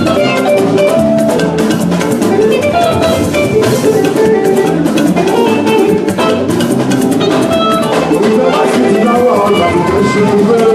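Church band music: a drum kit and percussion keep a steady, busy beat under pitched instruments playing a melody.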